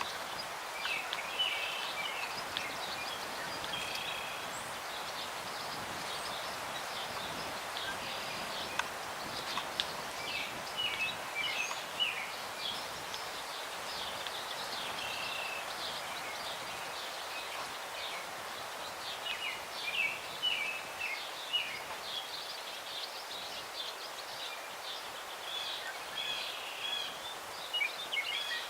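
Small birds chirping in short, scattered bursts, over a steady rush of breeze through the branches of old trees.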